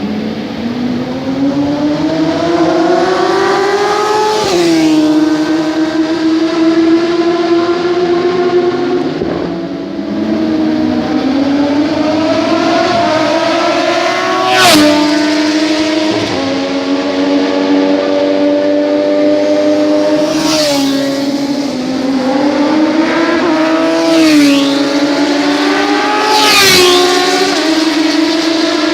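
Sport motorcycle engine revving and accelerating. Its pitch climbs and drops abruptly several times, like gear changes, with sharp cracks at some of the drops.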